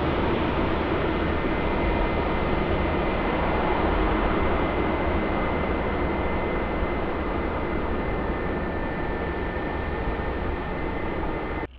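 Jet airliner's engines during a landing: a steady rumbling roar with a thin high whine, slowly fading, that cuts off abruptly near the end.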